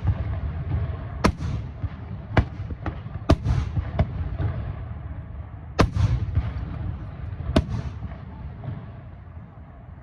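Aerial fireworks shells bursting: a series of sharp bangs over a low, rolling rumble of echoing booms, which dies away near the end.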